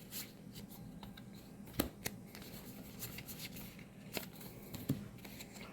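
Magic: The Gathering trading cards being handled and flipped through, with a faint rustle and a few light clicks as cards slide over one another.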